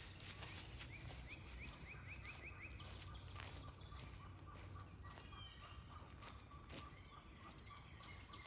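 Faint birdsong: a run of short quick chirps, then a fast, even trill lasting a few seconds, over a low steady rumble of outdoor background noise.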